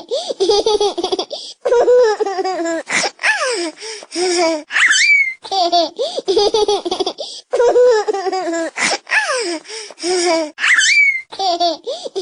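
A baby laughing in repeated bouts of giggles and belly laughs, with short high squeals between them; the same run of laughs comes round again about every six seconds.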